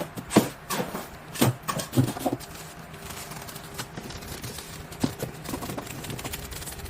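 A series of irregular hollow knocks and clatters, loudest in the first two and a half seconds, then fainter scattered taps.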